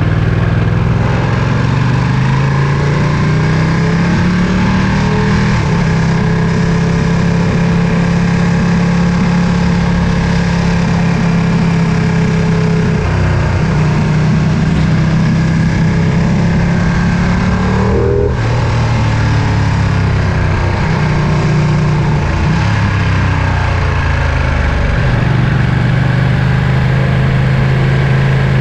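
Ducati Panigale V2's twin-cylinder Superquadro engine and exhaust running under way. The engine note rises over the first few seconds, holds steady, then steps up and down in pitch several times as the throttle and gears change, with a brief break about 18 seconds in.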